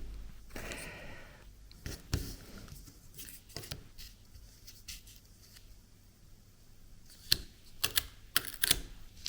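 Scattered light clicks and taps of washi tape and 3D-printed plastic cutters being handled on a desk, with a short rustle about half a second in and a quick run of clicks near the end.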